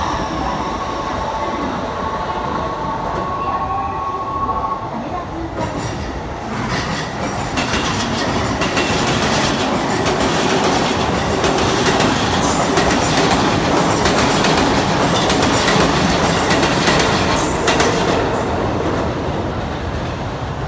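Electric train noise from two trains. In the first few seconds a departing Keikyu 2100-series train's motors whine steadily. From about six seconds a JR Yokohama Line E233-series train gives a rapid, growing clatter of wheels over rail joints, loudest near the end.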